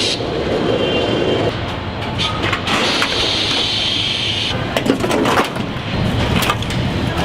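Assembly-line factory floor noise: machinery running steadily, with a hiss lasting about a second and a half midway and a few sharp clanks just after it.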